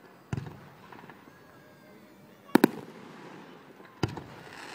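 Aerial fireworks shells bursting: a bang about a third of a second in, a louder double bang around two and a half seconds, and another bang just after four seconds, each trailing off.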